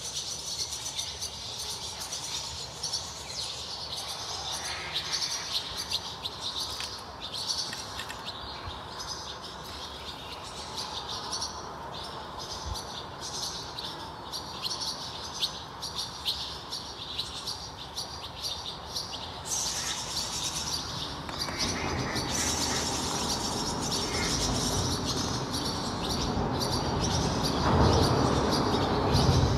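Songbirds chirping and twittering, many short high calls overlapping. Over the last several seconds a louder, even rushing noise builds up and is loudest near the end.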